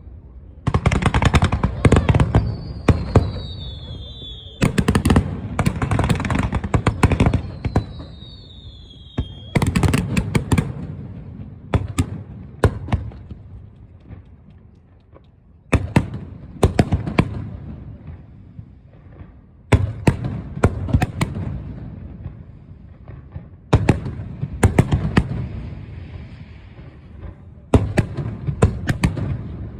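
Fireworks display: seven volleys of shells, each bursting with booms and crackling and dying away, about every four seconds. Two falling whistles sound in the first ten seconds.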